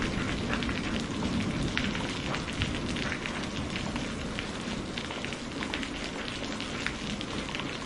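Steady heavy rain: a constant hiss with many separate drops ticking close by. A thunder rumble dies away at the very start.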